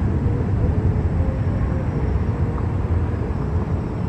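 Airliner jet engines running as a steady low rumble, as an aircraft rolls for takeoff.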